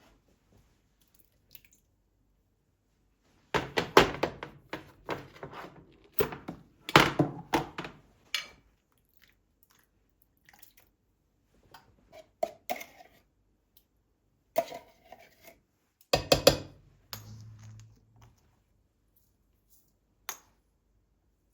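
Kitchenware being handled, with clattering knocks in several bursts. The longest run of knocks comes a few seconds in, and another burst comes a few seconds before the end.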